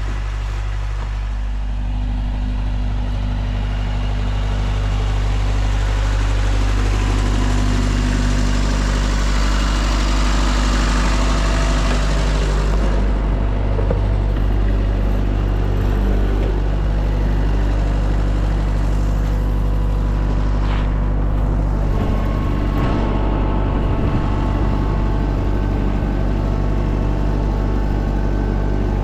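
An engine running steadily, with a broad rushing noise that swells for a few seconds about a third of the way in.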